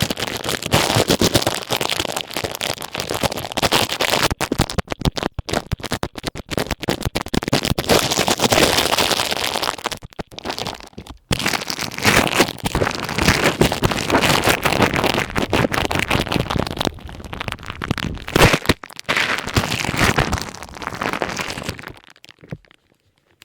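Ear pick scraping and rubbing over a thin plastic ear cap, giving dense crackling and rustling with many small clicks. It breaks off briefly about ten and nineteen seconds in and fades out near the end.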